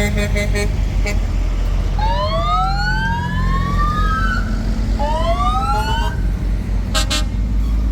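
An emergency vehicle siren wails twice, each time slowly rising in pitch, over the steady low rumble of truck engines. Short horn blasts sound at the start and again near the end.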